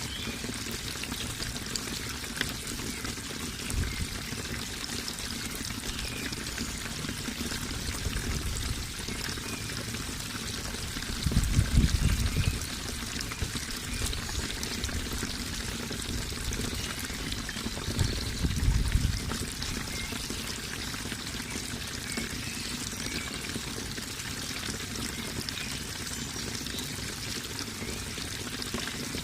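Water running and trickling steadily, a continuous splashing rush. Two brief, louder low rumbles break in, one a little before the middle and one about two-thirds through.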